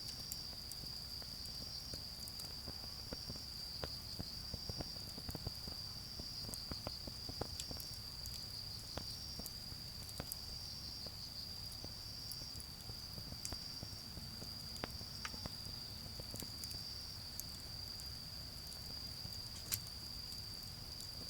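Autumn insects singing a continuous high, steady trill, with scattered small crackles and pops from a charcoal fire burning down; one sharper pop comes near the end. A faint low rumble of distant road traffic lies underneath.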